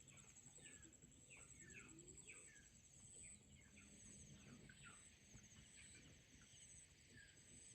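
Faint birds chirping in many short, falling calls over a steady high-pitched tone with a faint pulsing trill.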